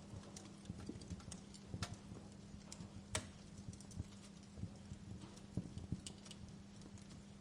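Wood fire crackling in a fireplace: faint, irregular sharp pops and snaps, the loudest about three seconds in, over a low steady hum.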